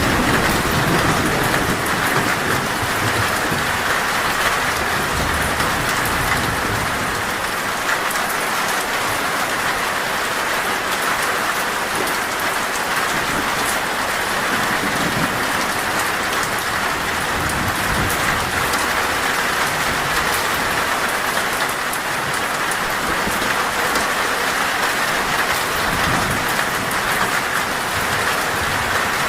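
Torrential rain falling steadily on a metal roof, a dense even patter. A low rumble of thunder fades away over the first several seconds.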